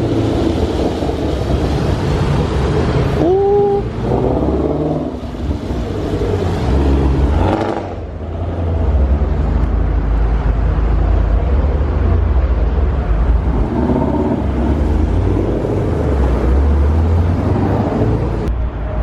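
Car engines with deep, loud exhaust rumbling at low revs, with occasional revving. A short rising tone comes about three seconds in, and the sound changes abruptly a few times.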